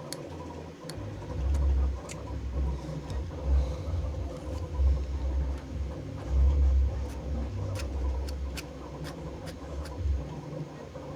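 Cricut Explore Air 2 vinyl cutter at work cutting a sticker, its motors running in stop-start stretches, with scattered small ticks and scratches from vinyl being weeded by hand.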